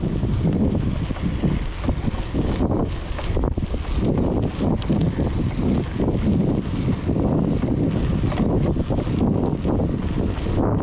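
Riding noise: steady wind rush and buffeting on the camera microphone over the drone of a moving vehicle.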